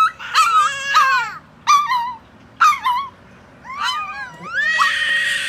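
Dog whining and yipping in a run of short, high-pitched calls that fall in pitch, with one longer drawn-out whine near the end.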